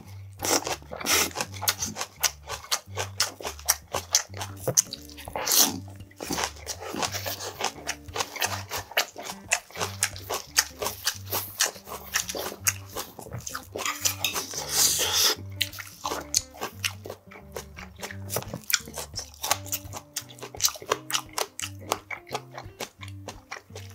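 Close-miked crunchy chewing of a lettuce-leaf wrap (ssam), with leaves rustling as the next wrap is folded, over background music with a steady bass line.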